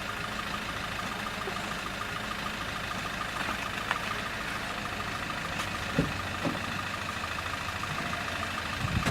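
Car engine idling steadily, with a few light knocks about two-thirds of the way through and near the end.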